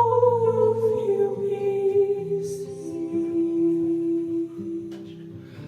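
Live band music: a long sung note, sliding slowly downward, held over guitar and bass notes. It fades out near the end.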